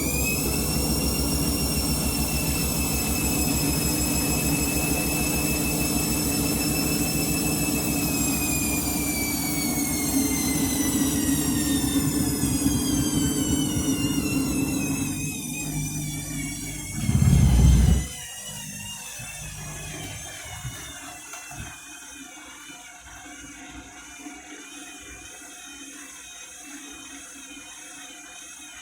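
Washing machine spinning: a high motor whine holds steady, then from about a third of the way in slowly falls as the drum spins down. Just past halfway there is a brief loud low rumble, and after it the machine runs on much more quietly as it winds down.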